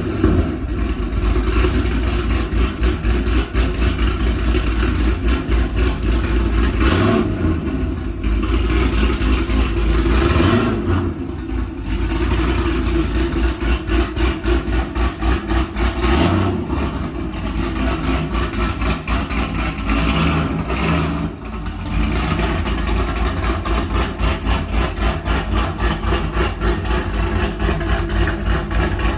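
LS7 7.0-litre V8 in a C6 Corvette Z06, fitted with a Brian Tooley Racing stage 3 cam, longtube headers and a Corsa exhaust, idling cold with a choppy, pulsing lope from the big cam. A few short throttle blips swell the sound before it settles back to the lumpy idle.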